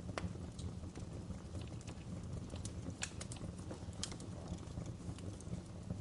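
Wood fire burning in a fireplace, crackling with scattered sharp pops and snaps over a low steady rumble, with a couple of louder snaps about three and four seconds in.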